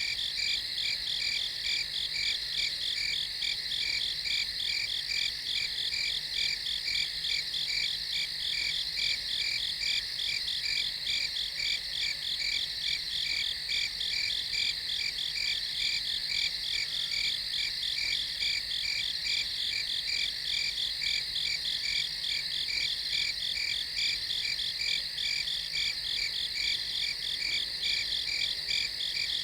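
Crickets chirping in a steady night chorus, a fast, even pulsing trill that holds unchanged throughout.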